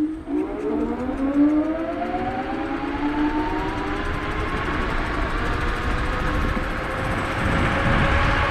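Electric scooter hub motors whining as the scooter pulls away and accelerates. The whine rises steadily in pitch over about five seconds, then levels off, while wind rush on the microphone builds.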